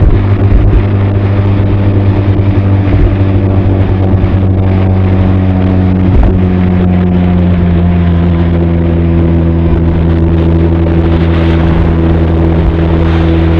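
Benelli TRK 502's parallel-twin engine and exhaust running at a steady cruise, heard from a camera inside the saddlebag. The pitch drops a little about six seconds in, then holds steady.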